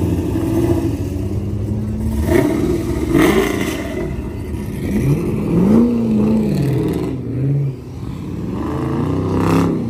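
Performance car engines running as they pull away one after another, with quick revs that rise and fall about halfway through and again near the end.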